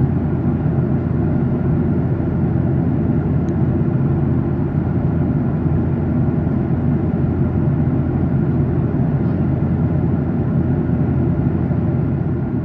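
Steady cabin drone of a Boeing 737-800 in cruise, heard inside the cabin: the hum of its CFM56-7B jet engines mixed with airflow rush, with low humming tones running through it.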